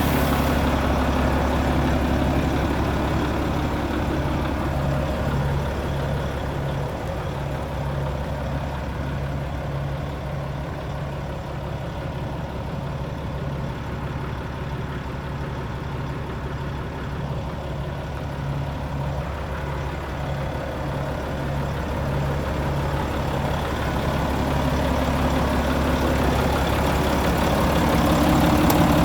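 A Volvo FM 13.400 truck's 13-litre inline-six diesel engine idling steadily. It grows quieter in the middle and louder again near the end.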